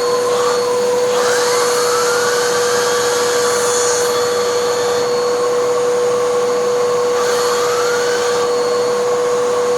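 Hoover vacuum cleaner running steadily, a constant whine over a rush of air drawn through an air-driven hand turbo tool. The tool's turbine is spinning slowly and nearly stalling under load, a sign of weak airflow to the turbine and a poor design. A faint rising whine comes twice, about a second in and again about seven seconds in.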